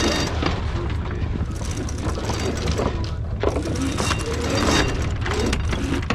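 Sailboat's inboard engine running steadily, a constant low hum under a wash of wind and water noise.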